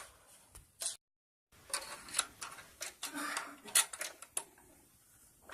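Plastic parts of a Singer 3321 sewing machine clicking and rattling as they are worked by hand around the bobbin area and accessory compartment: a string of sharp clicks and knocks. The sound drops out briefly about a second in.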